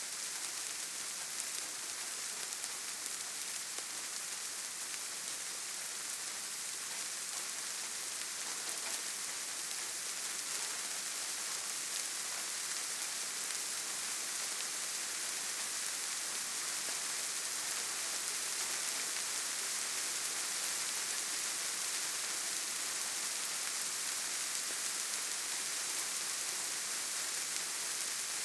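Steady rainfall, an even hiss of many drops falling without a break.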